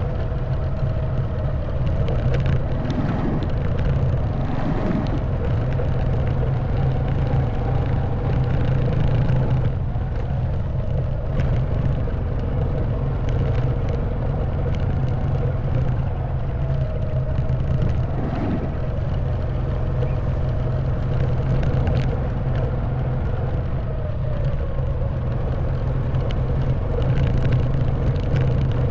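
Honda Wave 110cc single-cylinder four-stroke motorcycle engine running at an even pace on the move, with occasional short clicks and knocks from the bike riding over a rough trail.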